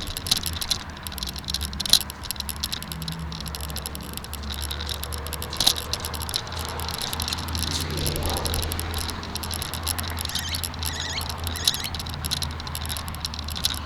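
Bicycle ride at speed: a steady low rumble of wind on the microphone, with rapid small clicks and rattles throughout.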